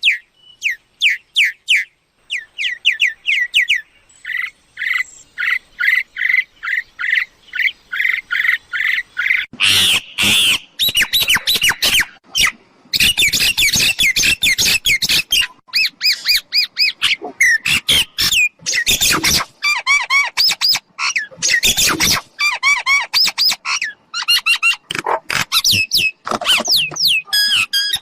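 Mynas calling: fast runs of short whistled notes, broken several times by loud, harsh squawks.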